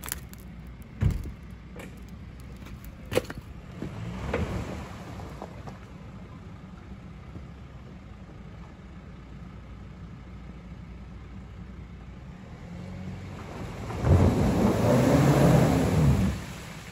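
Jeep Wrangler's engine running low and steady as it crawls through broken ice and water, with a couple of sharp knocks in the first few seconds. About fourteen seconds in, the engine revs up and back down loudly for about two seconds amid a rush of noise.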